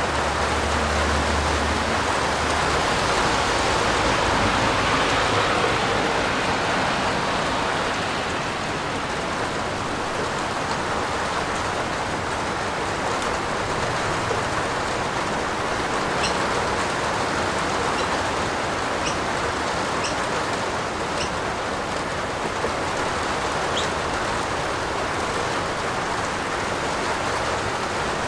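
Steady rain falling on a roof, an even hiss, with now and then a sharp single drop tick in the second half.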